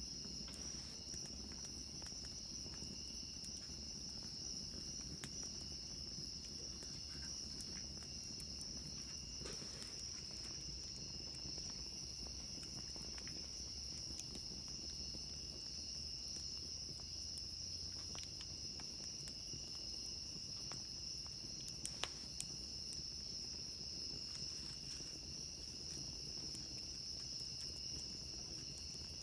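Crickets trilling in a steady, unbroken high chorus, with a low rumble beneath and a few faint pops from a campfire, the clearest about a third of the way in and again about three quarters through.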